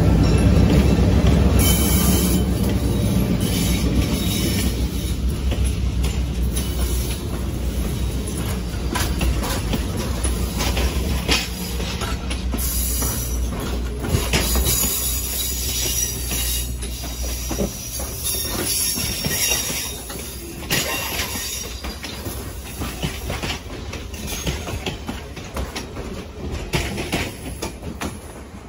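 Diesel locomotives passing close by with a heavy engine rumble that eases off after several seconds. Passenger cars then roll past, their wheels clicking over the rail joints and squealing on the curve.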